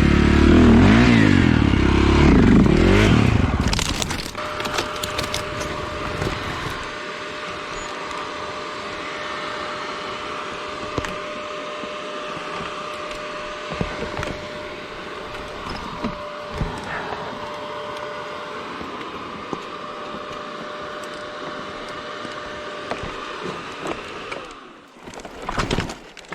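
Off-road motorcycle engine running for about four seconds, then it shuts off. A steady, quieter hiss follows, broken by scattered light clicks and knocks, with a few sharper knocks near the end.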